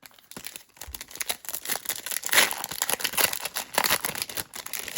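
Crinkling and tearing of a foil-wrapped Panini Mosaic football card pack being ripped open by hand, a dense crackle that is loudest about halfway through.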